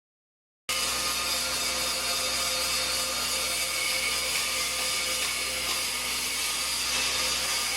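Motor-driven corn husking and shelling machine running steadily, a loud mechanical whir with many steady tones, cutting in abruptly about a second in.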